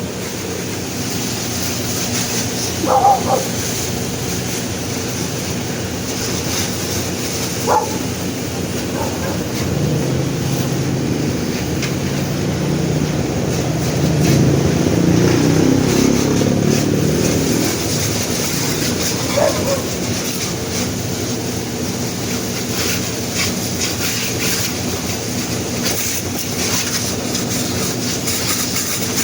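A steady mechanical drone, like a running vehicle, swelling a little midway, with three brief sharp sounds standing out: about three seconds in, about eight seconds in and near twenty seconds in.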